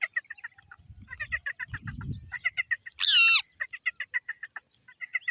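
Pet parrot chirping in a fast run of short, repeated chirps, with one loud, drawn-out screech about three seconds in.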